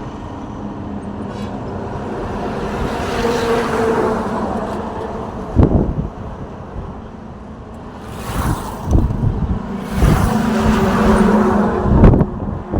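Road traffic, with vehicles passing one after another; each engine swells as it goes by, one about four seconds in and another near the end. Several short low thumps are heard in between.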